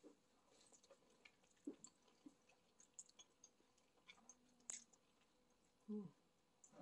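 Faint mouth sounds of eating jjajangmyeon (Korean black-bean noodles) with chopsticks: soft chewing and slurping with scattered small wet clicks, and a louder short mouth sound near the end.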